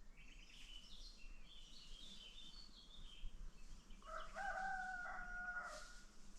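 A rooster crows once, about four seconds in, a held call lasting under two seconds. Before it come high, warbling chirps.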